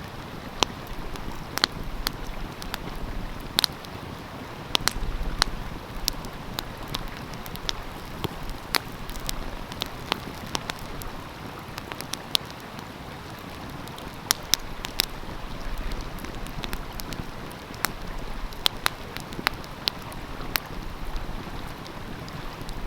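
Wood fire crackling, with frequent sharp irregular pops and snaps, over the steady rush of flowing stream water.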